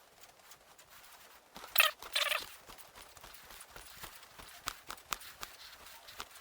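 Workshop handling noises: a short sharp clatter and a brief scrape about two seconds in, then scattered light clicks and taps.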